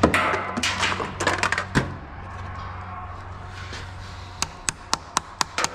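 A sharp knock and a clatter of knocks over a steady low hum, then a run of sharp clicks, about four a second, near the end.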